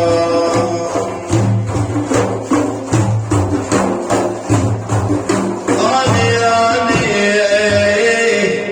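Frame drums beating a steady rhythm under a held melodic line, an instrumental stretch of Sufi devotional music. About six seconds in the drumming thins and a gliding melodic line comes to the fore, and the sound dips briefly near the end.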